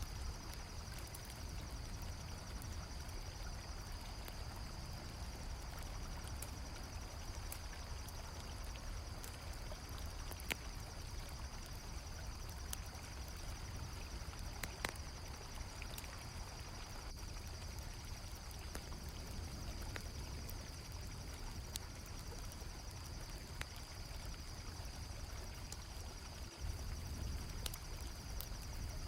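Flowing river water with crickets chirping in a constant high trill and the occasional sharp pop of a crackling campfire.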